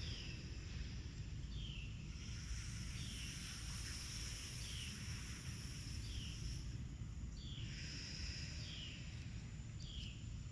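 A bird repeating a short, falling chirp about once a second over a steady low outdoor rumble, with a high insect-like hiss that swells for a few seconds in the middle.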